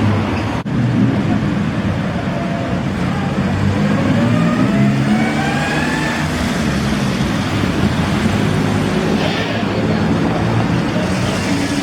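Classic cars' engines running as they pull away, with one revving up in a rising whine partway through.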